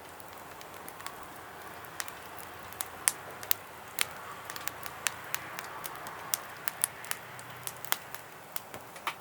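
Wood fire burning in a Solo Stove Campfire stove, with a steady hiss and irregular sharp crackles and pops.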